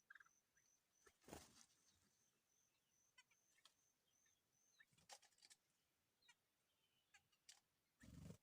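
Very faint distant bird calls: scattered short high chirps, with a regular run of high pips over the first half, and a few soft knocks about a second in, around five seconds and at the end.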